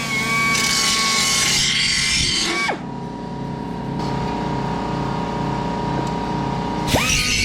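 Electric angle grinder running, then switched off and spinning down about three seconds in. It spins back up near the end.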